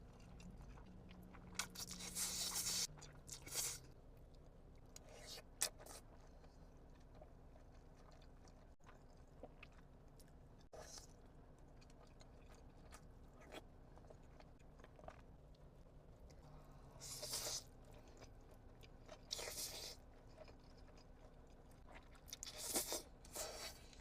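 Close-up eating sounds of Buldak spicy instant noodles: short bursts of chewing and biting, a few seconds apart, with a long quiet stretch in the middle. A faint steady hum sits underneath.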